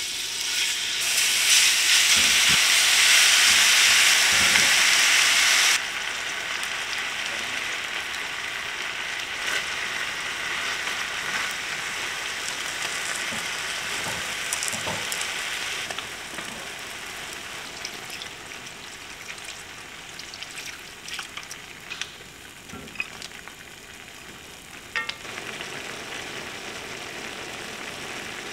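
Marinated bulgogi beef and vegetables sizzling in a hot enameled cast-iron braiser. The sizzle is loud for the first six seconds or so, then cuts abruptly to a lower, steady sizzle. Throughout, tongs click and scrape against the pan as the food is stirred.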